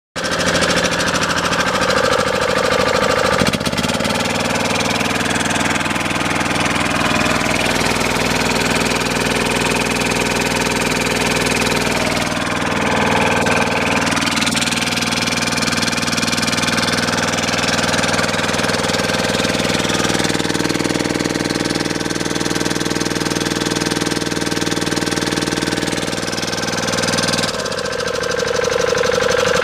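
Koshin KP-50 engine pump's small petrol engine running steadily. Its engine note shifts a few times, about 3.5 s, 12.5 s and 27.5 s in.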